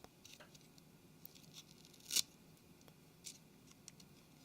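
Faint scraping and small clicks of excess adhesive being cleaned off the edge of a Nokia Lumia 720's freshly fitted screen, with one sharper click about two seconds in.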